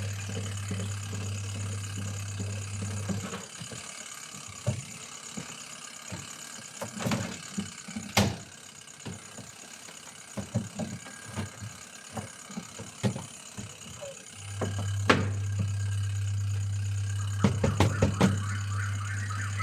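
Insects trilling steadily at a high pitch, over a low machine hum that cuts off about three seconds in and starts again about fifteen seconds in. While the hum is off, scattered knocks and clicks are heard.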